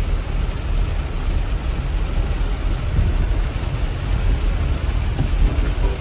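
Steady, loud rushing rumble of floodwater from a cloudburst, heavy in the low end and without a break.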